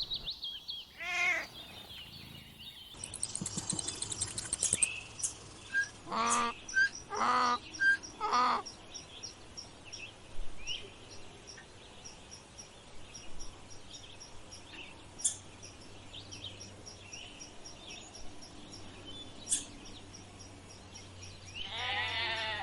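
A cat meowing a few times, then a small bird giving a long, even series of short high chirps, several a second. A bleat begins right at the end.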